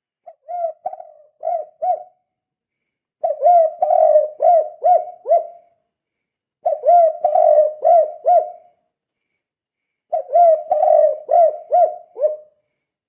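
A spotted dove (tekukur) calling in the 'kuk 2' style prized by bird keepers, singing four cooing phrases a second or so apart, each a quick run of coos lasting about two seconds.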